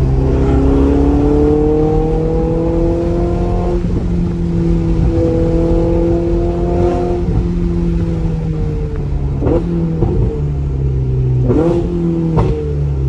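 Ferrari 488 GTB's twin-turbo V8 heard from inside the cabin, accelerating with a rising engine note that breaks at a gear change about four seconds in and climbs again. In the second half it eases off and the note falls, with a few short sharp sounds near the end.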